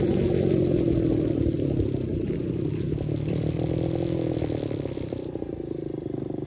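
125cc dirt bike engine running while being ridden, its pitch rising and falling. It eases off a little past five seconds in.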